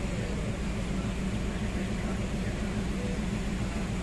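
Steady running noise of a passenger train at speed, heard from an open coach window: rumble of the wheels on the track with a constant low hum.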